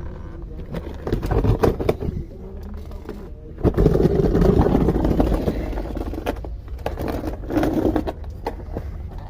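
Work on a truck's cardan shaft with a grease gun: clicks and scraping over a steady low hum, with a louder stretch of noise from about four to six seconds in.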